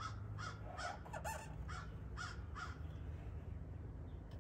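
A bird calling in a quick run of about seven short calls, each a little under half a second apart, that stops about two and a half seconds in.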